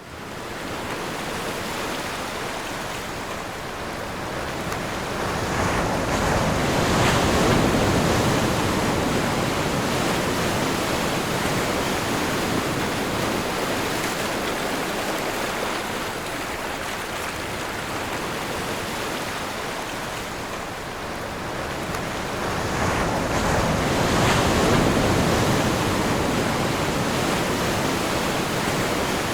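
Ocean waves rolling onto a shore: a steady wash of surf with two larger waves building and breaking, about a third of the way in and again near the end.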